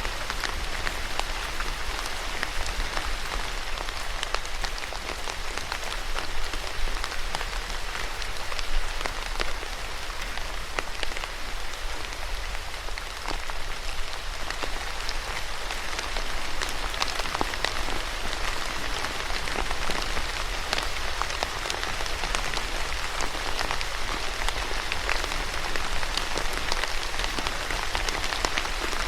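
Steady rain falling on a surface, with many individual drops pattering sharply over an even hiss.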